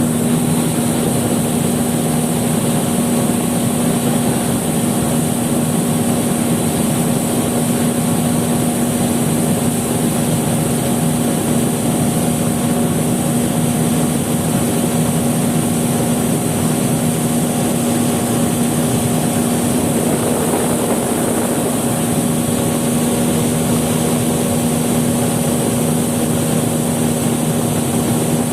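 An engine running steadily at one constant speed, a continuous even hum with no changes in pitch.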